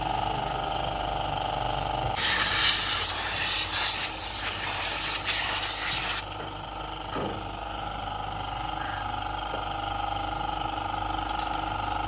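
A burst of pressurised spray hissing for about four seconds, starting and stopping abruptly as a nozzle trigger is pressed and let go, over a steady background hum.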